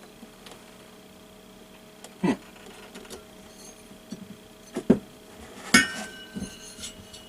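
Small metal parts and tools clinking and knocking on a hard surface during a diesel heater teardown: four or five separate sharp clinks, the loudest about six seconds in, which leaves a brief metallic ring.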